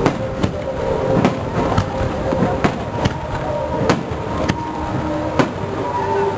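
Aerial fireworks shells bursting overhead: about eight sharp bangs at uneven intervals over the continuous noise of the display.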